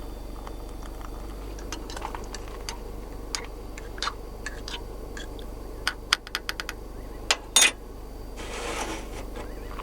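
Scattered clicks and light knocks of small hard objects being handled, with a quick run of sharp, louder clicks about six to seven and a half seconds in, then a brief rustle near nine seconds.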